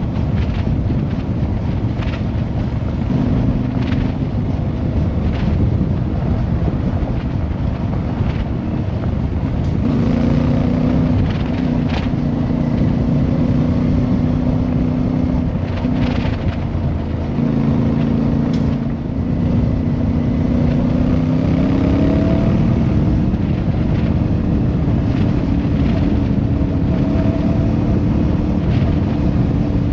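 Motorcycle engine running under way. Its note shifts up and down with speed, dips about halfway through and climbs again, over wind rushing on the microphone.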